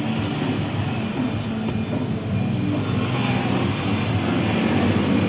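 A car engine running steadily, mixed with background music.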